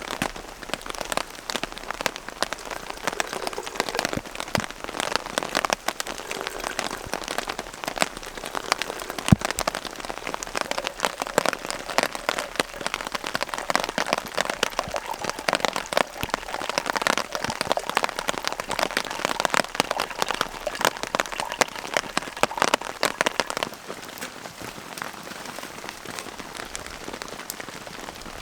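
Rain pattering on a tent, a dense steady run of individual drop hits with one sharper tap about nine seconds in; the patter thins a little near the end.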